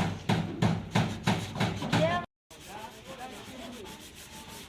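Hand sanding: sandpaper rubbed back and forth on a panel in even strokes, about three a second. It cuts off suddenly about two seconds in and gives way to fainter, quicker rubbing.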